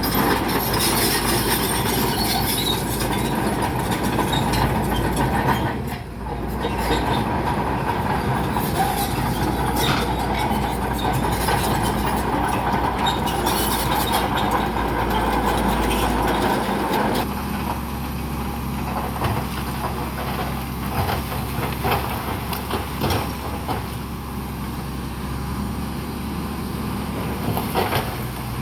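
Crawler bulldozer's diesel engine running under load, with the clanking and rattling of its steel tracks and of pushed rock. About two-thirds of the way through the sound drops and the clanks become more scattered.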